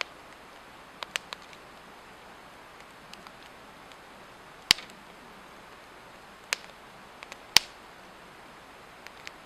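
Swedish torch log fire burning, the wood giving off irregular sharp crackles and pops over a steady low hiss; two pops, about five and eight seconds in, stand out as the loudest.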